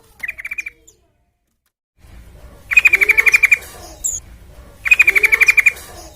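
Yellow-vented bulbul (trucukan) giving fast chattering trills of about a dozen quick, even notes in under a second. There is a short trill at the start, then two longer ones about two seconds apart, with softer, lower sliding notes beneath. The sound cuts out completely for about a second before the second trill.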